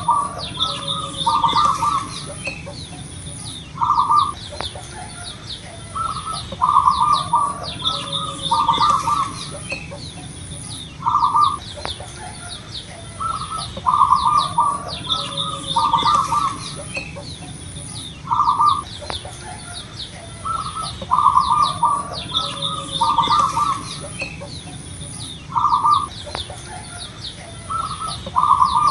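Zebra dove (perkutut) cooing: short clusters of quick, rhythmic coo notes repeated every one to three seconds. Small birds chirp higher up, over a steady, pulsing high buzz.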